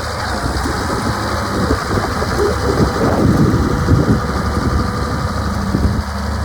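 Diesel engine of a 1993 Cat Challenger 65C tracked tractor running at a steady idle, swelling briefly louder with a rougher rush about three seconds in.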